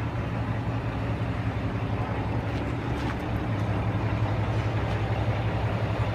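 Detroit DD15 inline-six diesel engine of a 2010 Freightliner Cascadia running at a steady idle, with an even throb; it gets slightly louder about four seconds in.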